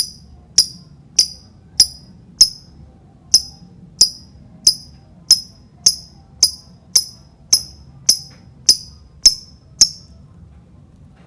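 Lovebird giving a run of short, sharp, high-pitched chirps at an even pace, about one every 0.6 seconds, which stops about ten seconds in.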